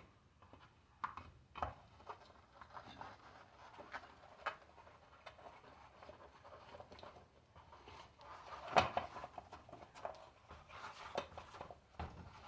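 Hands working a bicycle tire and wheel: scattered clicks, rustles and light knocks, with one louder knock about nine seconds in.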